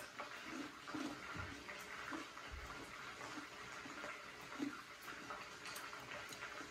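Faint, irregular chewing and mouth sounds of someone eating a lettuce wrap of crunchy deep-fried shrimp and sweet potato fritters, with a soft low thud about two and a half seconds in.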